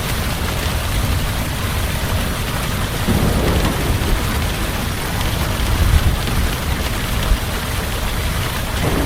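Heavy rain falling steadily, with thunder rumbling low underneath and swelling a few times.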